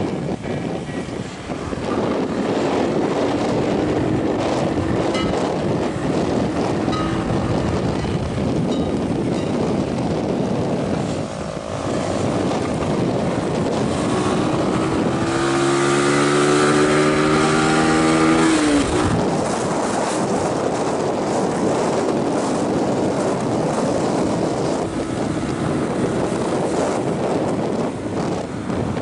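Motorcycle on the move, with its engine running under a steady rush of wind and road noise. About halfway through, a clear engine note holds and climbs slightly for a few seconds, then drops away abruptly.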